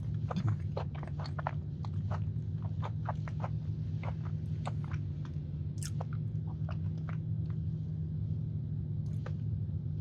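Close-miked chewing of a mouthful of cheesecake with its crust: wet mouth clicks and smacks, rapid for the first few seconds, then slower and sparser. A steady low hum runs underneath.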